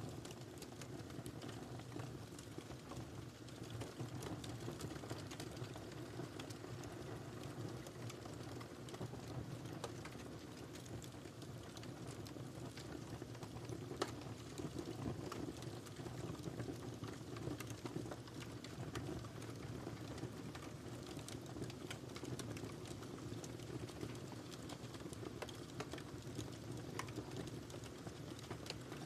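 Wood fire burning in a fireplace: a steady low rush of flames with scattered small crackles and pops, one sharper pop about halfway through.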